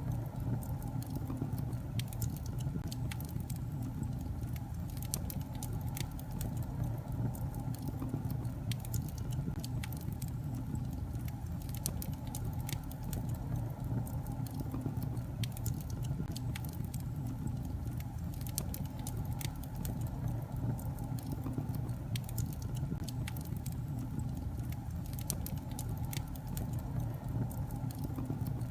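Wood fire burning in a fireplace: a steady low rumble of the flames with many sharp crackles and pops from the logs throughout.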